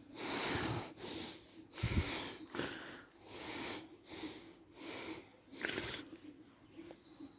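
Shiba Inu breathing close up, a string of short breathy snorts and sniffs at uneven intervals.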